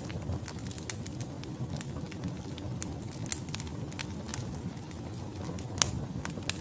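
Wood logs burning in a fireplace, crackling with frequent irregular sharp pops over a low, steady rumble of flame. A couple of louder pops come near the end.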